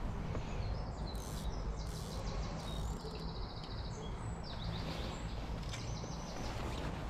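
Small songbirds singing rapid trilled phrases, twice, over a steady low hum.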